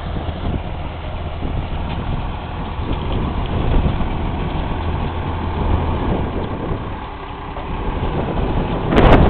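Tractor engine running steadily at idle, a low hum under wind and rustle on the microphone. A short loud burst of noise comes near the end.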